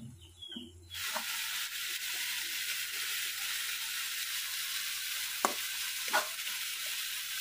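Pork and mustard greens frying in a kadai, sizzling steadily from about a second in as they are stirred with a spatula. Two short sharp clicks, the spatula against the pan, come near the end.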